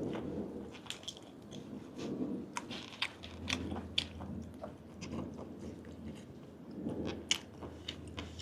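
A person chewing and biting grilled giant octopus tentacle close to the microphone, with irregular wet mouth clicks several times a second.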